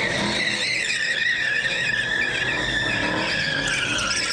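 Car tyres squealing under wheelspin, a sustained high screech that wavers slightly in pitch.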